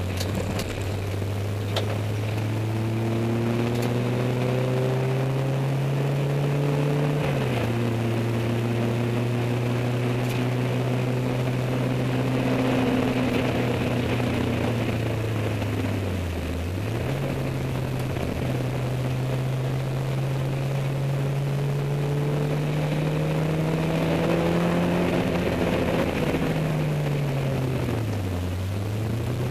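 Peugeot 205 MI16 four-cylinder engine running at steady, fairly high revs. Its pitch creeps slowly upward, drops quickly once, and twice dips sharply and recovers, with no knock or impact heard.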